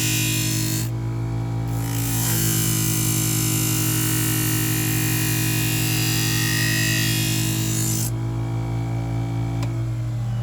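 Electric knife-grinding machine humming steadily while a kitchen knife's edge is drawn lightly across its spinning abrasive wheel to set the edge. There is a hissing grind until about a second in, then a longer one of nearly six seconds, with only the motor hum between and after, and a single click near the end.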